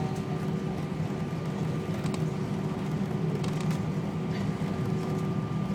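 Steady cabin noise of an Airbus A319 rolling on the ground after landing: a constant hum from the engines and air conditioning, with two faint steady tones and a few light clicks.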